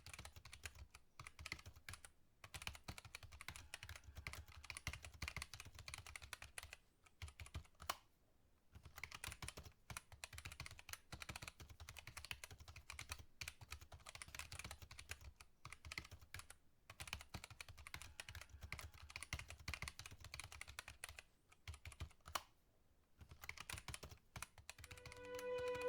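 Keyboard typing: quick runs of keystrokes broken by short pauses.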